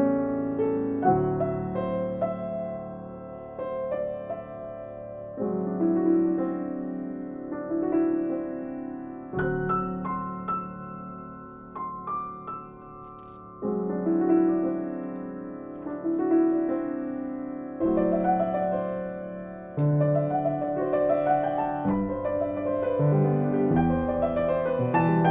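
Piano music: a slow piece of chords struck about every two seconds, each left to ring and fade before the next.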